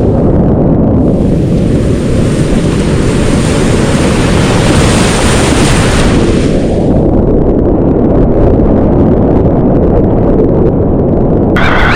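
Whitewater river rapids rushing loudly around a kayak, with a heavy low rumble of churning water and buffeting on the microphone. A bright spray hiss swells in about a second in and fades out after the middle.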